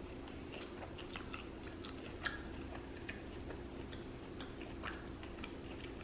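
Close-miked chewing of a breaded mozzarella stick: faint, soft wet mouth clicks and smacks, with one slightly louder click a little over two seconds in.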